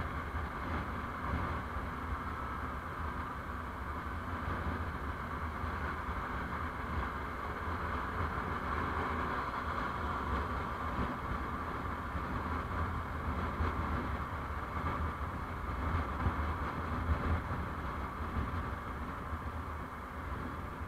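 Steady rumble and road noise from a moving road vehicle, heard from on board.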